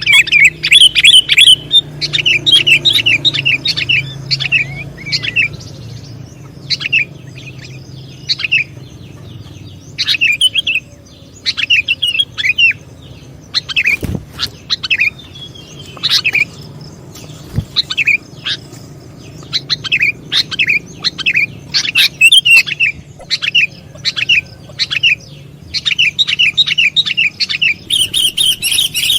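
Sooty-headed bulbul calling in runs of rapid, short chirping notes, with pauses between phrases and denser chirping at the start and near the end. A single sharp click about halfway through.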